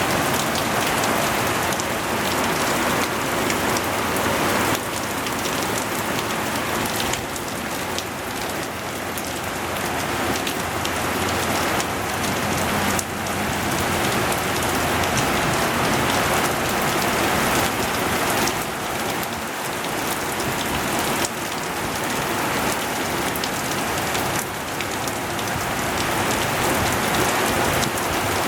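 Heavy rain pouring down in a steady, loud hiss, its level stepping abruptly a few times, about five seconds in and again around thirteen seconds.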